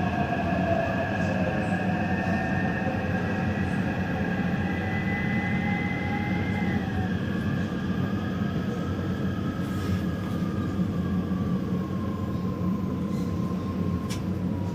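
Taipei Metro train running on the Zhonghe–Xinlu line: a steady low rumble of wheels on track with a whine from the traction motors that drops in pitch through the second half as the train slows.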